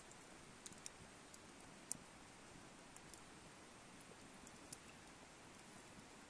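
Wood fire crackling faintly: a few scattered sharp pops over a low hiss, the loudest about two seconds in.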